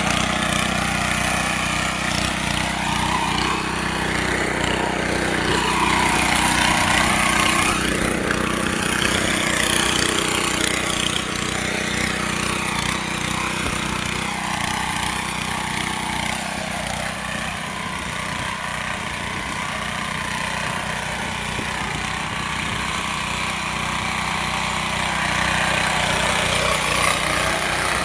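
Small engine of a mini tractor running steadily at a constant speed.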